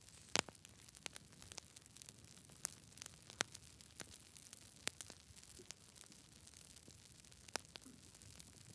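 Campfire crackling softly: irregular sharp pops and snaps over a faint steady hiss, the loudest pop about half a second in.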